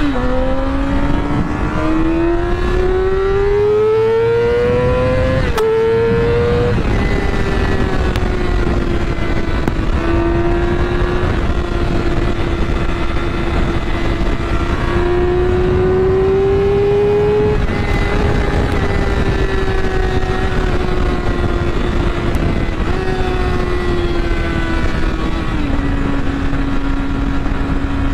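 A motorcycle engine under way at speed. Its pitch climbs for about five seconds, drops sharply at a gear change and climbs again, then holds a fairly steady speed with slow swells and two step-downs in pitch near the end. A steady rushing noise runs underneath.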